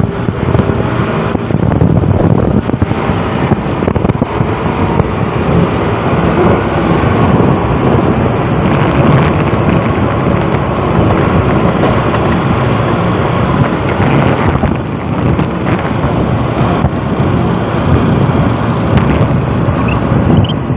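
JCB backhoe loader's diesel engine running steadily and loudly while the machine works.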